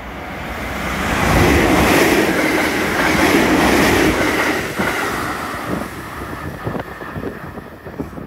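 JR 313 series electric multiple unit passing through a station at speed without stopping. Its rush builds as it approaches, is loudest for a few seconds about a second in, with wheels clattering over the rails, then fades as it goes by.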